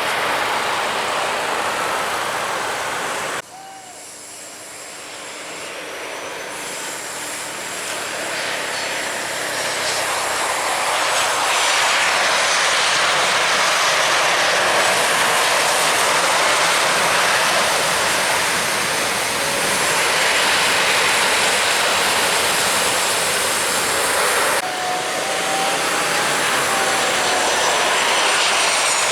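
Jet airliner engine noise, a loud wide rushing sound with faint whining tones. It breaks off suddenly about three seconds in, swells back up over several seconds to a steady loud level, and changes abruptly again near the end.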